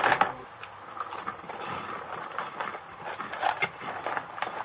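Chewing of a banana-flavoured puffed snack like a Cheeto: irregular small crunches and crackles.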